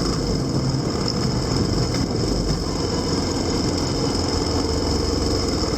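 Vehicle engine running steadily with a constant low rumble.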